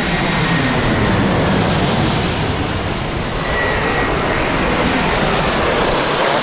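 Jet airliner's engines, a loud steady roar as the aircraft passes close by, with a whine in it that drops in pitch during the first couple of seconds.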